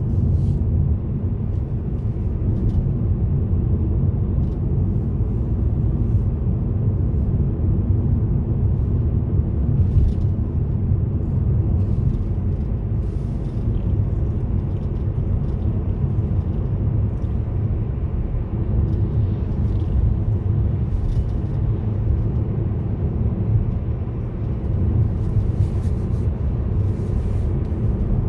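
Steady low rumble of a car driving along a road: tyre and engine noise, with a few faint ticks.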